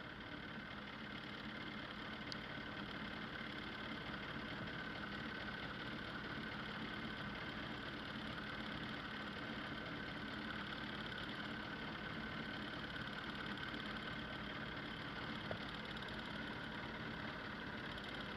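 A motor running steadily: a constant hum with a steady higher whine, unchanging throughout, with a couple of faint ticks.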